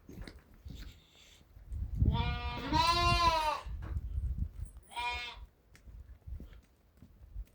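Sheep bleating: one long wavering bleat about two seconds in, then a shorter one a second or so later.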